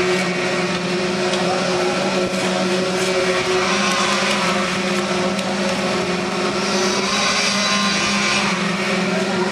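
An engine running steadily at a constant speed: an even, pitched drone with a hiss over it.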